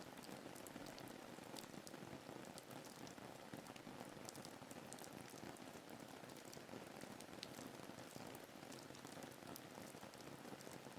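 Faint, steady rain ambience: an even hiss of rainfall with many small drop ticks scattered through it.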